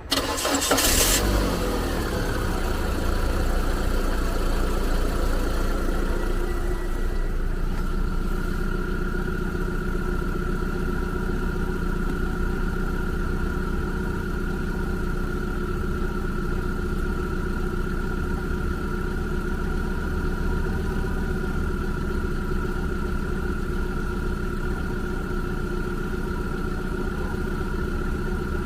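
Car engine cranked by the starter and catching within about a second, then running fast briefly with its pitch dropping as it settles into a steady idle.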